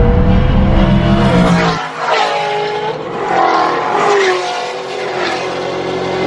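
Two street-race cars, a single-turbo Mustang 5.0 and a supercharged C6 Corvette ZR1, accelerating hard. A heavy rumble drops away about two seconds in, then engine notes rise and fall as the cars shift through the gears.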